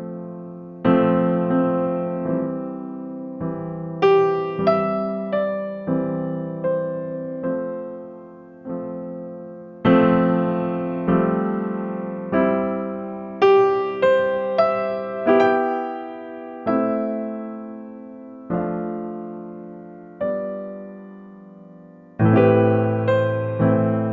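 Background music: a slow, gentle piano melody, each note struck and then fading.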